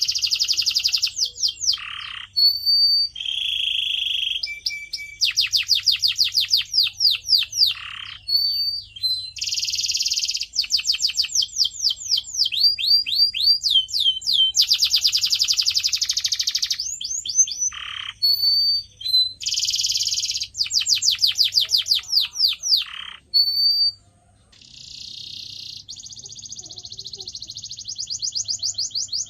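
Domestic canary singing a long song of fast rolling trills and rapid runs of sweeping notes, broken by short clear whistled notes. A softer, faster trill comes near the end.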